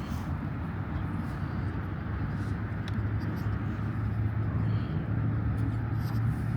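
Steady low background rumble, like outdoor ambience with distant traffic, with a few faint clicks.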